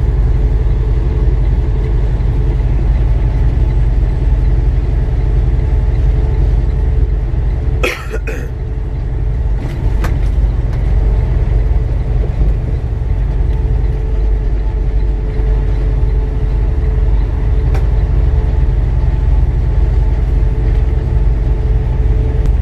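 Semi-truck cab noise at highway speed: a steady low engine and road rumble with a faint steady drone. About eight seconds in, a brief sharp sound briefly cuts through, and there are a couple of faint clicks later.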